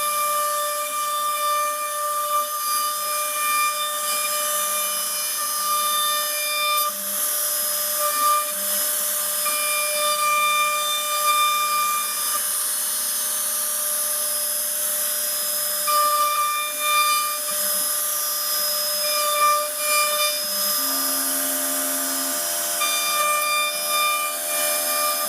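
CNC router cutting a design into a wooden furniture panel: a steady whine from the spindle and the cutting hiss, with tones that shift and switch as the machine moves between cuts.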